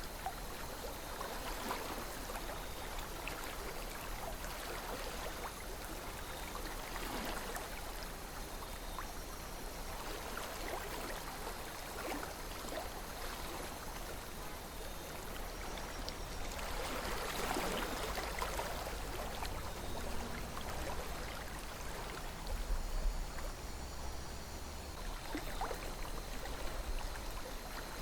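River water flowing and gurgling steadily, with a swell in the rush of water about two-thirds of the way through and a brief low rumble near the end.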